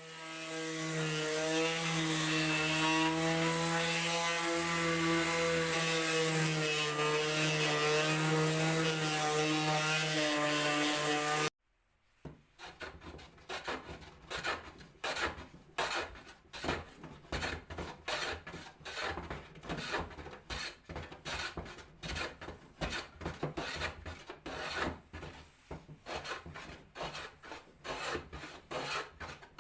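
A power tool runs with a steady pitched whine and cuts off suddenly about a third of the way in. After a brief pause, a hand tool is worked over wood in quick back-and-forth rasping strokes, two or three a second.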